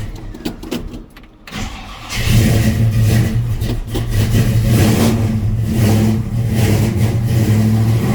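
Cold start of a 1967 Chevrolet C10's 454 big-block V8 that has sat unused for days: a brief crank, then it catches about two seconds in and runs, the revs rising and falling a little.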